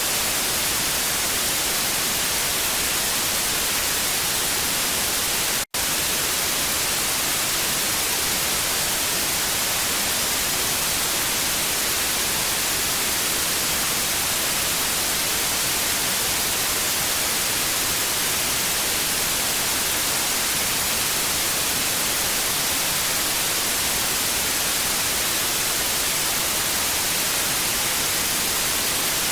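Television static: a steady, even hiss weighted toward the high frequencies, cutting out for an instant about six seconds in.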